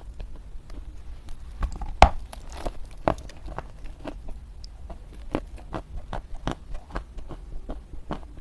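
Dried Chinese loess clay chunks crunching in a quick string of short, soft crunches, several a second, with one sharp, louder crack about two seconds in.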